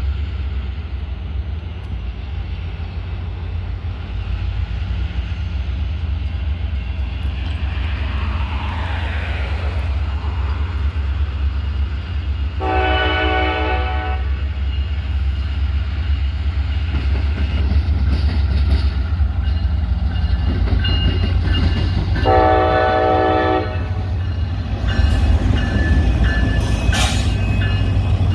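Diesel locomotives of a freight train (an EMD SD40-3 and a GP38-2) running with a steady deep engine rumble that slowly grows louder. The locomotive horn sounds two chord blasts of about a second and a half each, about 13 and 22 seconds in.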